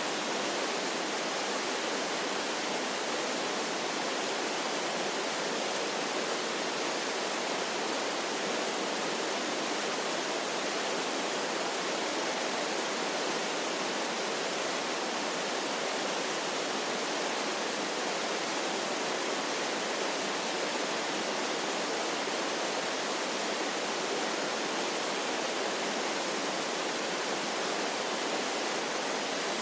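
Waterfall rushing: a steady, even hiss of falling water with little bass and no changes.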